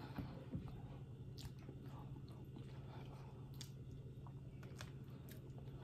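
Faint, scattered clicks and small crunches of someone eating crawfish, over a steady low hum.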